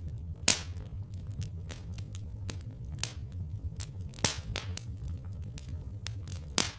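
Log fire crackling, with irregular sharp pops over a steady low rumble; the loudest pops come about half a second in, around three and four seconds, and near the end.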